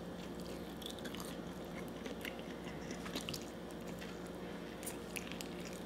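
Close-up mouth sounds of someone biting and chewing barbecue chicken held in the hands: faint, scattered short clicks and smacks.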